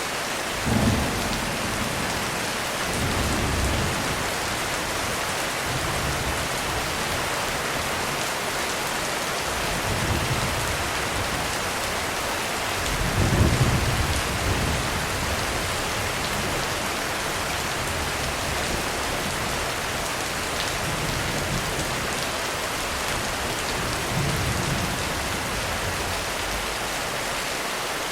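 Heavy rain falling steadily, with several low rolls of thunder coming and going, the loudest about thirteen seconds in.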